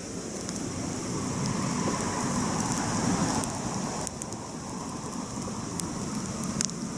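Wood campfire burning: a steady rush of flames that swells for a second or two, with scattered sharp crackles and pops from the burning wood.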